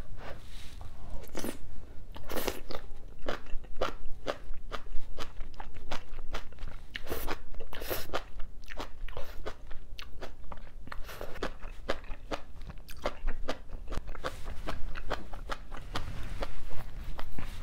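Close-miked chewing of mouthfuls of crisp bean sprouts in spicy seafood stew: a fast, uneven run of sharp crunching clicks.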